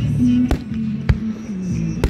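Two sharp fireworks bangs about half a second apart as aerial shells burst, over music with low sustained notes.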